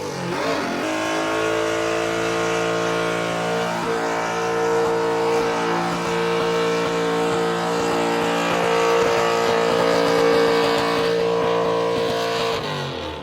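V8-swapped Lexus IS doing a burnout: the V8 held at high revs with a steady exhaust note for about eleven seconds, then backing off near the end.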